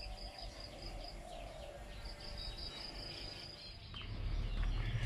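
Insects trilling in a high, rapid pulsing buzz that pauses briefly about a second in and then resumes, over outdoor ambience with scattered short chirps. A low rumble builds near the end.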